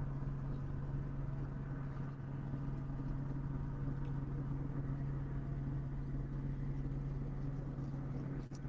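A car engine running steadily with an even low hum, broken briefly near the end.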